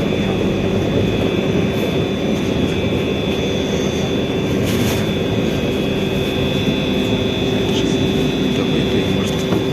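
Inside a trolleybus: a steady hum and high whine from its electric drive over running noise, with a single sharp clack about five seconds in.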